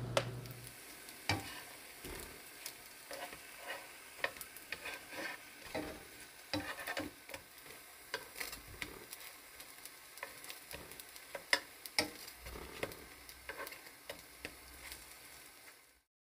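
Battered zucchini slices pan-frying in oil: a steady sizzle with frequent sharp crackles and pops.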